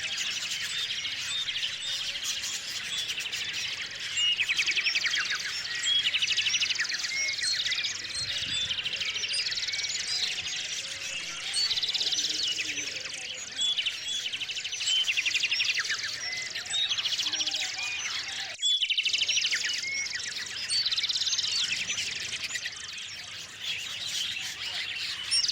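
Small songbirds chirping and singing, many overlapping calls with rapid trilled phrases repeating every couple of seconds, broken by a brief sudden gap about three-quarters of the way through.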